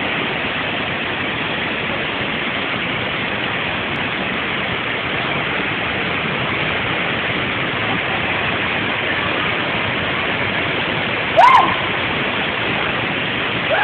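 Waterfall rushing steadily, a dense even noise of falling water. A short, loud, pitched sound cuts in briefly about eleven seconds in.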